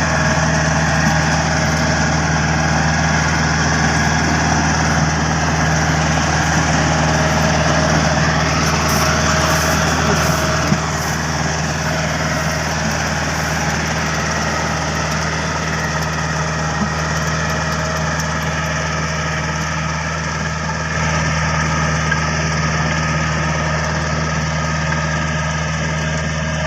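Yanmar compact tractor's diesel engine running steadily while powering a levee-making machine, its level dipping slightly about eleven seconds in and rising again about ten seconds later.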